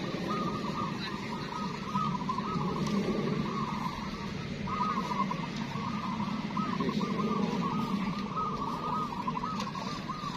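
Many zebra doves (perkutut) cooing at once, their repeated rolling coos overlapping without a break, over a steady low background rumble.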